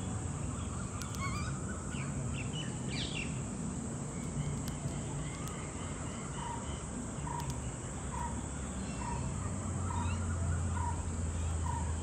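Outdoor birds chirping and calling, with one short call repeated about once a second in the second half, over steady background noise; a low hum comes in near the end.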